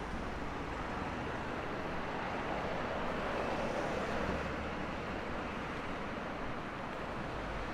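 Steady city street traffic noise, a continuous rush of passing vehicles that swells a little about three to four seconds in.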